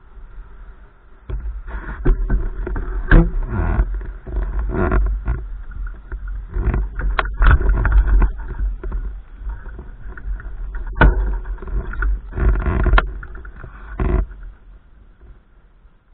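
Gusty wind buffeting the microphone: irregular low rumbling blasts that rise and fall, starting about a second in and dying down near the end.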